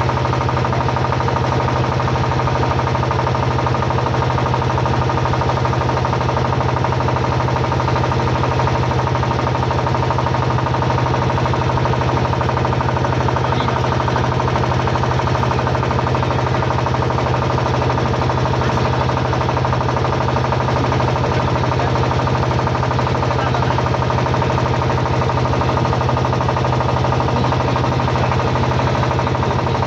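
Motorboat engine running steadily at an even speed, a constant low hum with no change in pace.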